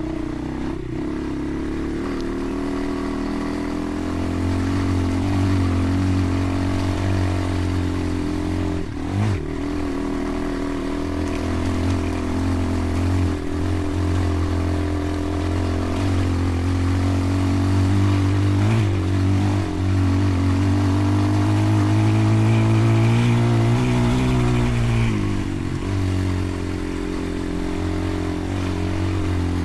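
Off-road vehicle engine running while riding a trail, its pitch shifting with the throttle. The engine note climbs for a few seconds about three-quarters of the way through, then drops back.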